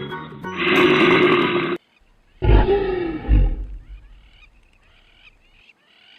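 Two loud animal calls, each cut off abruptly, the second with a low pitch that bends down; then faint, short high calls trailing off.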